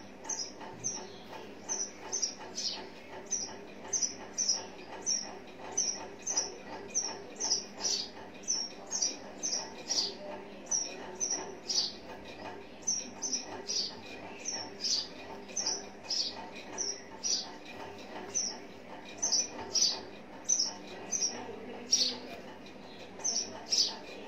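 A small bird chirping over and over: short, high chirps, nearly two a second, keeping an even pace. A steady low hum runs beneath.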